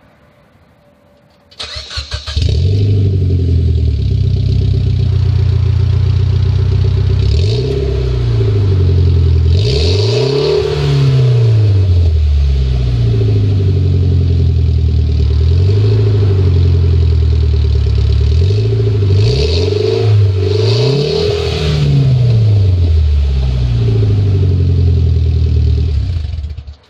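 A 2014 Mitsubishi Lancer Evolution X GSR's turbocharged 2.0-litre four-cylinder, straight-piped through just a 3-inch glasspack resonator from the cat back, started, idling loud and revved several times, the two biggest revs about ten and twenty seconds in, then shut off near the end.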